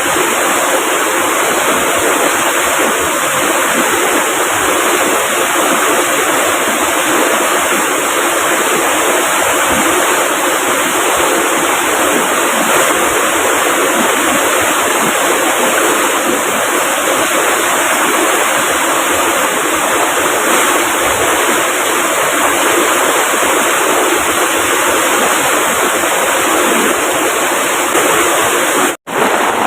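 River water rushing steadily, a constant even roar of flowing water, broken by a split-second dropout near the end.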